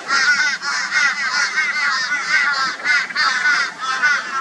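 Flock of crows calling loudly and harshly, many short overlapping raucous calls in quick succession: a mobbing chorus aimed at a barn owl.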